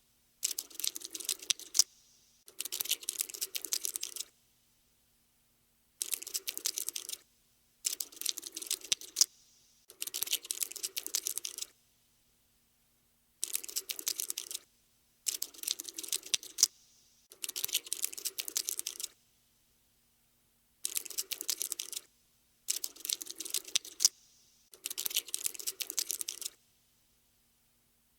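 Bursts of rapid, dry clicking and ticking like insect legs scuttling: a cockroach-scurrying sound effect. About a dozen bursts, each lasting one to two seconds, with short pauses between them.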